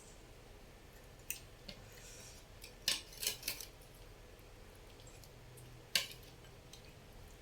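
Eating utensils clicking against a bowl of noodle soup, as a few sharp clinks: a cluster about three seconds in and a single louder one near six seconds.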